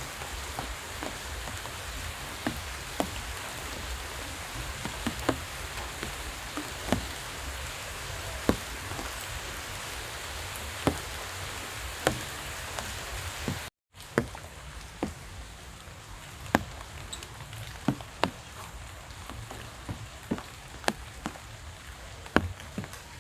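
Steady rain falling, with scattered sharp single drops landing at irregular moments. The sound cuts out briefly about two-thirds of the way through.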